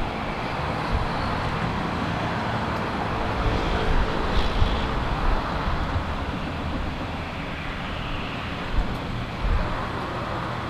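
Steady rumble and roar of a jet airliner's engines, swelling slightly midway, with gusts of wind buffeting the microphone.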